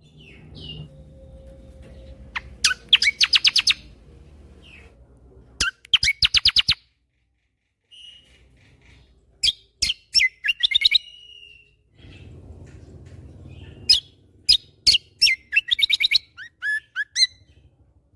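Kecial kombo (cucak kombo) singing in bursts of rapid-fire clicking trills, about ten notes a second. The bursts alternate with short whistled and sliding notes and are separated by pauses of a second or more.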